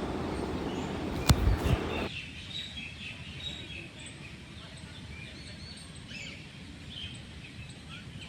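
Small birds chirping and tweeting repeatedly over quiet open-air ambience. For the first two seconds a rushing noise with one sharp knock lies over them, and it cuts off abruptly.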